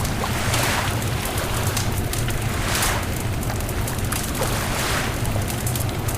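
Beach bonfire crackling with sharp pops, over surf washing in about every two seconds and a steady low rumble.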